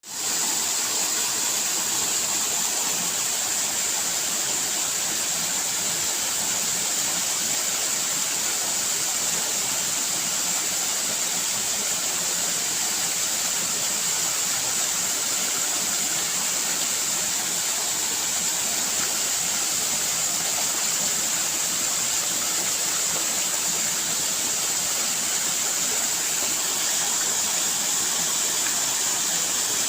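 Waterfall rushing steadily: a constant, even hiss of falling water that does not change.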